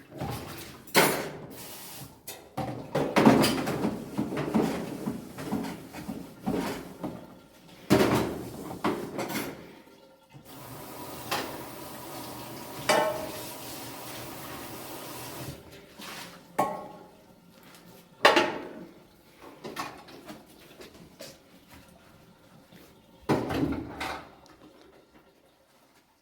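Dishes and pots clattering and knocking against each other again and again, as in washing up or tidying a kitchen. A steady rushing noise, like a running tap, fills about five seconds near the middle.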